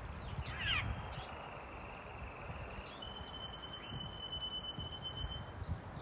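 Aviary birds calling: a quick falling call just under a second in, over a thin, steady high whistle that gets stronger about halfway through and a low rumble throughout.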